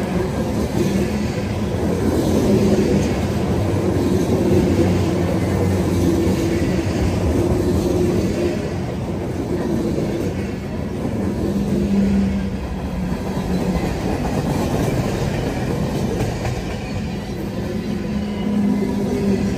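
Freight train cars, covered hoppers and boxcars, rolling past close by: steel wheels running on the rails in a steady, loud noise.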